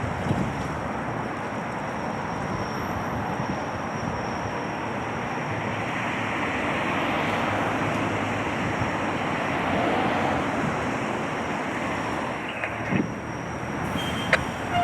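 Steady street traffic noise with wind buffeting the microphone, and a couple of short knocks near the end.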